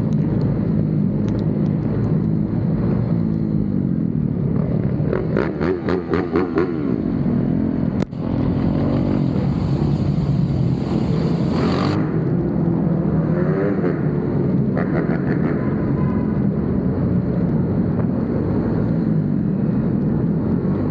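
Motorcycle engine running steadily, revving up and down a few times. There is a sharp click about eight seconds in, followed by a few seconds of hiss.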